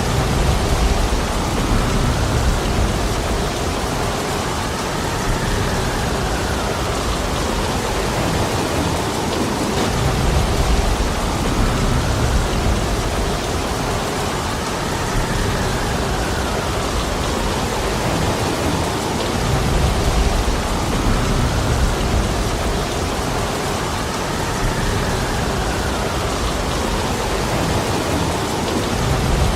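Heavy, steady rain with wind gusting through a forest. A low rumble swells about every ten seconds, and a fainter whoosh rises and falls between the swells.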